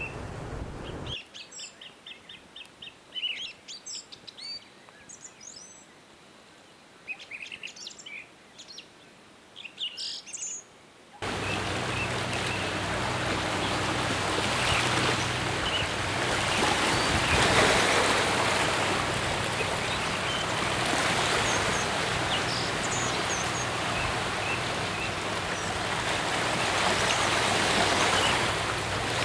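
Small birds chirping, with quick trills and short calls over a quiet background. About eleven seconds in, this cuts to a loud, steady rushing noise with a low hum underneath and a few faint chirps.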